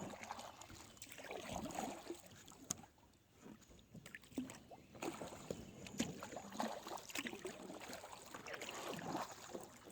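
Kayak paddle dipping and splashing in creek water, with scattered light knocks and a brief lull partway through.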